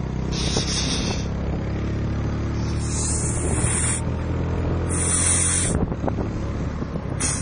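Turbocharged Yamaha Lagenda 115 motorcycle engine running steadily, with sharp bursts of high hiss about every two seconds. The engine note dips briefly near the end.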